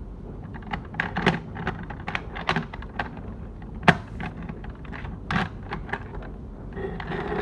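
Irregular clicks and taps of small objects being handled and moved about, likely toy figures and a toy car, with the sharpest knock about four seconds in.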